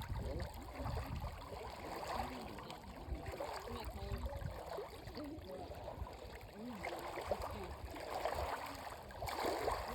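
Shallow water sloshing and trickling, with a low rumble of wind on the microphone and faint voices in the background.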